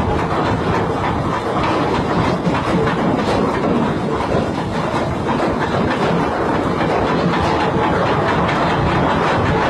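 Loud, steady rumbling and clattering of a heavy vehicle running.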